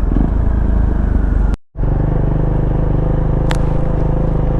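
KTM Duke 390's single-cylinder engine running at a steady speed, with the sound cutting out sharply for a moment about a second and a half in.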